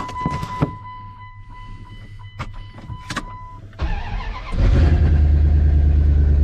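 Ram truck's V10 engine cold-started. A steady electronic warning tone and a few clicks come first; about four seconds in the starter cranks briefly and the engine catches, settling into a loud, steady idle.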